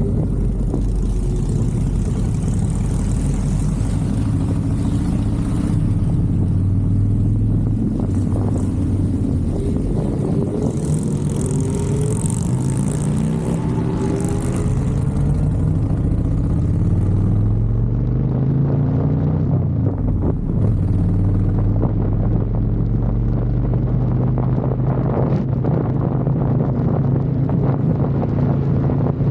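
Motorcycle engine running continuously, its pitch rising and falling again and again as the revs change.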